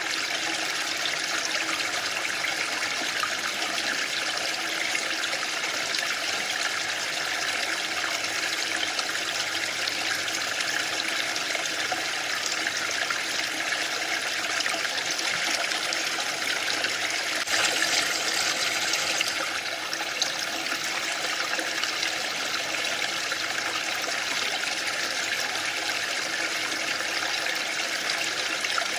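Waterfall: falling water giving a steady rushing hiss, swelling briefly louder and brighter about two-thirds of the way through.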